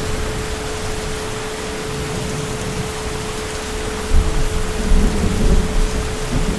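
Heavy rain falling steadily, with low thunder rumbling in from about four seconds in. A faint steady hum tone sits under the rain.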